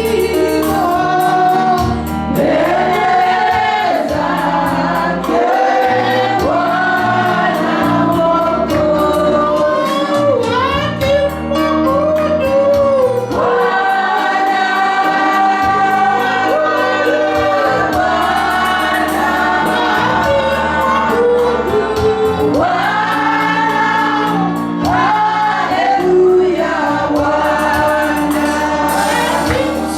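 Gospel worship song: a choir and congregation singing with a band, steady bass and drums.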